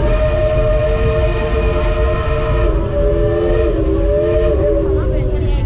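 Chime steam whistle of the 1938 Baldwin 2-8-2 steam locomotive White Pass & Yukon No. 70 blowing one long blast of several notes together. Its pitch dips slightly about halfway through and sags as it dies away near the end, over the steady rumble of the running train.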